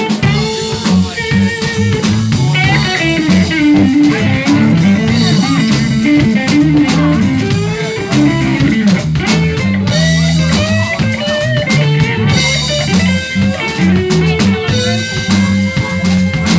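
Live blues band playing an instrumental passage: electric guitar lines over bass and drums with a steady beat.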